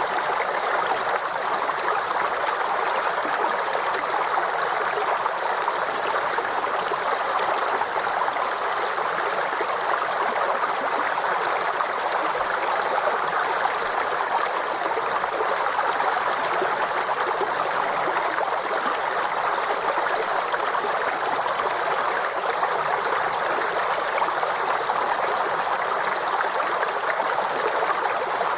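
A forest stream running steadily over rocks, a continuous rushing and babbling with no breaks.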